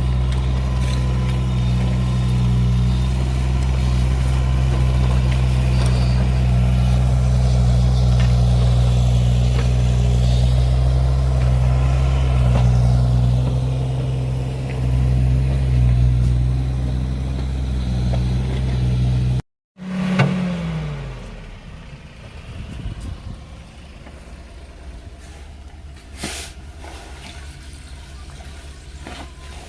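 An engine running steadily at a constant speed. It stops abruptly at a cut about two-thirds of the way in, followed by a brief falling tone and then a much quieter steady background noise.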